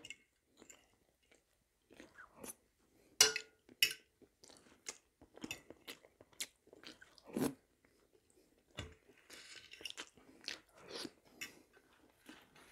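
A person chewing food close to a clip-on microphone: soft mouth sounds with scattered short crunches and clicks, the sharpest about three seconds in.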